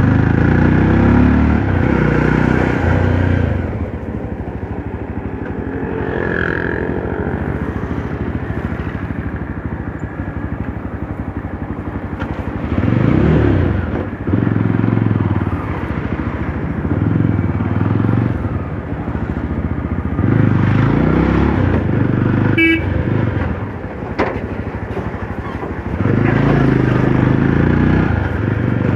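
Classic Legends Yezdi Roadster's single-cylinder engine under way, its pitch climbing and dropping several times as it pulls through the gears and eases off. A short horn toot comes about three-quarters of the way through.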